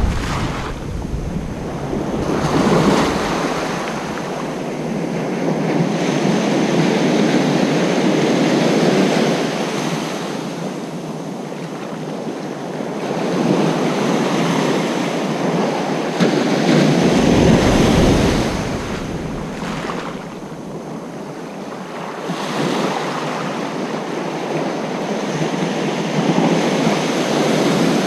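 Ocean surf breaking on a beach, the wash of the waves swelling and easing in slow surges several seconds apart. Wind rumbles on the microphone at the start and again about seventeen seconds in.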